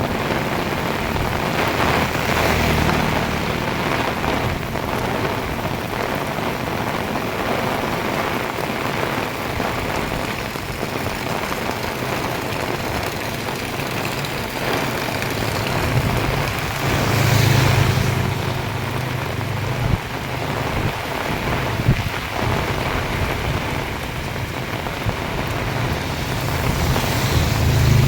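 Heavy rain falling steadily. A passing vehicle's engine hum swells and fades about two-thirds of the way through, and again near the end.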